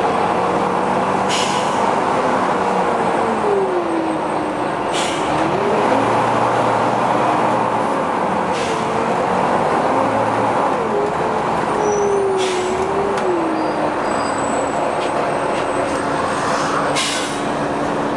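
Volvo B9TL bus running with its very loud cooling fan, a whine that wanders up and down in pitch and settles steady near the end. Brief air hisses break in about every three to four seconds, five times in all.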